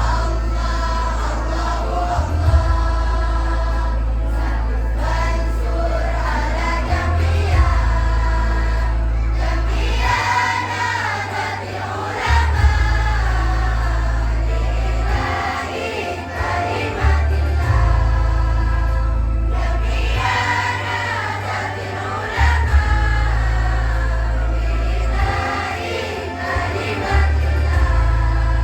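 A choir sings a shalawat, an Islamic devotional song, over an accompaniment that holds deep bass notes and changes them every few seconds.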